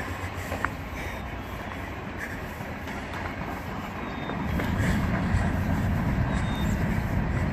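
Empty coal train rolling past, its wheels clicking over the rail joints over a steady low rumble that grows louder about four and a half seconds in.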